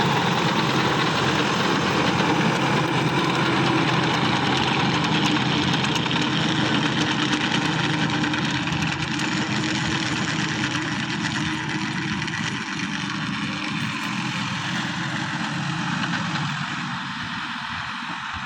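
Sonalika tractor's diesel engine running steadily, getting a little quieter over the last several seconds.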